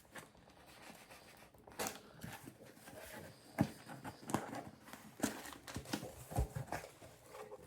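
A cardboard shipping package being opened by hand: scattered light taps, scrapes and rustling of cardboard and packing.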